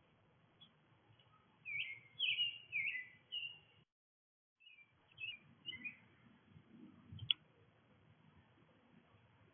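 Small songbirds at a feeder chirping in quick runs of short calls, with a pause in between. The sound cuts out completely for about half a second, and there is a single sharp click later on.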